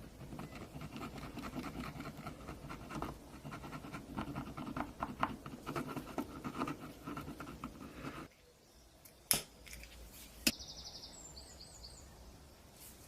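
Hand scraping and rubbing on the rusty steel of an old Tonka toy truck, uneven short strokes like sanding or filing, that stops suddenly after about eight seconds. Two sharp clicks follow, then a few short high chirps.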